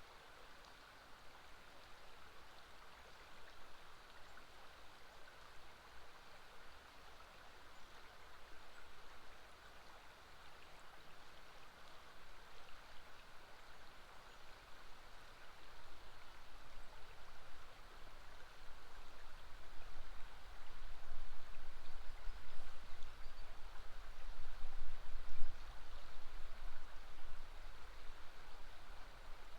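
River water flowing, a steady rushing. About halfway through, a low, uneven rumble builds beneath it and the sound grows louder in swells.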